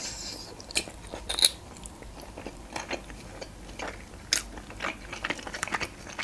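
Close-miked chewing of a mouthful of macaroni with minced meat: scattered wet clicks and smacks of the mouth, a few louder ones about a second and a half in and past the middle.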